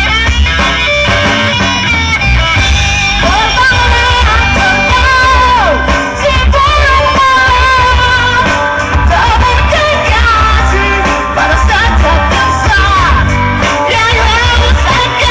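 Amateur band playing a rock song live, with singing over guitar and heavy, pulsing bass.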